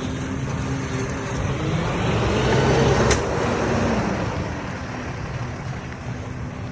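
Garbage truck's diesel engine running, with its noise swelling to a peak about halfway through and then easing off. There is a single sharp click about three seconds in.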